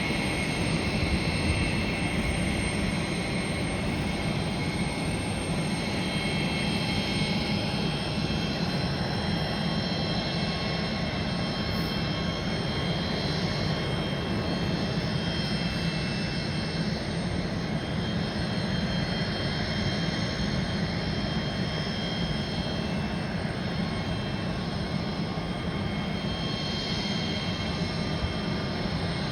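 Jet airliner's turbofan engines running: a steady rumble with several high whining tones over it, holding an even level throughout.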